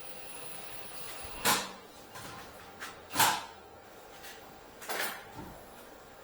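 Three short, sharp clunks of things being handled, about a second and a half apart, the middle one loudest.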